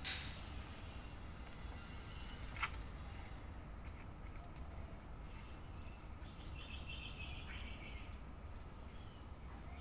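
Birds chirping faintly over a steady low hum, with a short run of chirps about seven seconds in. Two sharp clicks, one at the start and one about two and a half seconds in.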